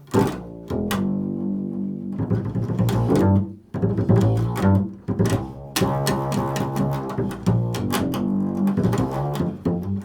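Improvised double bass music: a run of low notes, some sharply plucked and some held, changing pitch every second or so.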